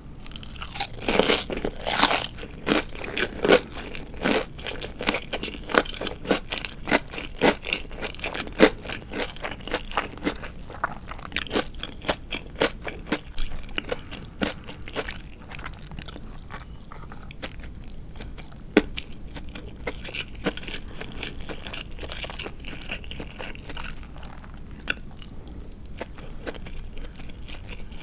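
Close-miked chewing of crispy deep-fried marinated chicken (tatsuta-age), with many sharp crunches of the fried coating over the first half, then softer, quieter chewing with only the odd crunch.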